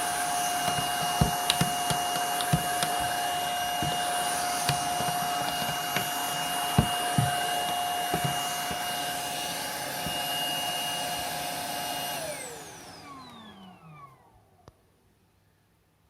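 Hitachi PV-BFH900 cordless stick vacuum running with a steady high whine and scattered knocks. About twelve seconds in it is switched off, and its motor winds down in a falling whine to near silence.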